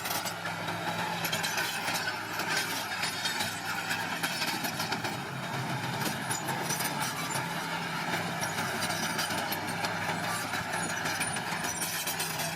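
Small bulldozer's diesel engine running steadily under load, with a continuous clatter of tracks and crushed stone as it pushes material.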